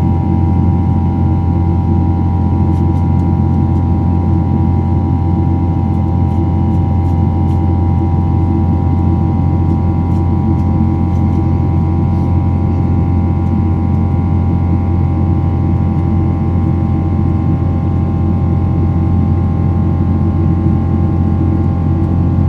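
Steady drone of a jet airliner heard inside the cabin: a constant low rumble with a steady high hum over it, unchanging throughout.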